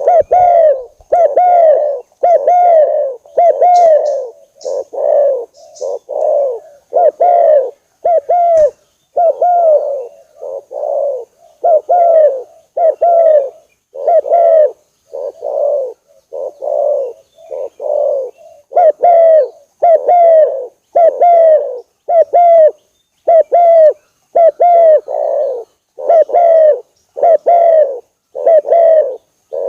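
Spotted dove (tekukur) cooing: a long, even series of short coos, about one a second, each note dipping in pitch.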